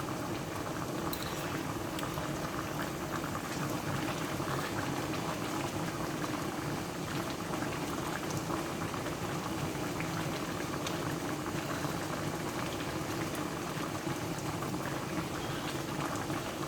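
Chicken adobo boiling in a pot: a steady bubbling and crackling as the sauce cooks down and thickens.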